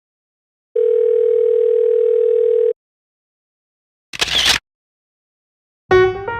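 Telephone dial tone: one steady, unbroken tone with a narrow, phone-line sound, held for about two seconds. About a second and a half later comes a short half-second burst of noise, and piano music starts just before the end.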